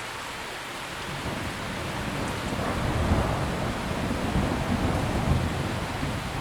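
Steady rain with a long roll of thunder that builds about a second in, is loudest midway and slowly eases off.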